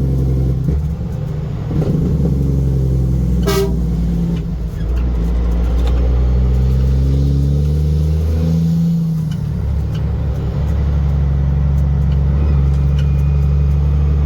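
A truck engine running, its pitch rising and falling between about six and nine seconds in as it is revved, with a short horn toot about three and a half seconds in.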